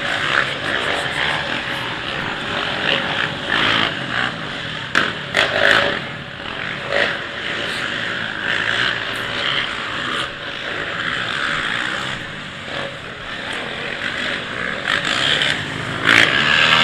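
Racing quads (ATVs) running around a dirt motocross track, several engines revving and easing off, with a few louder moments about five seconds in and near the end.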